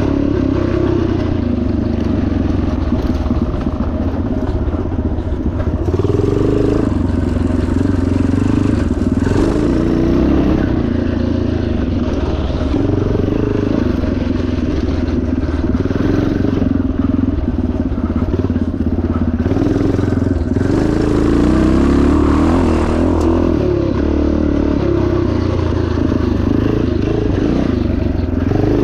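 1977 Yamaha TT500's single-cylinder four-stroke engine running hard under load, its revs rising and falling over rough ground.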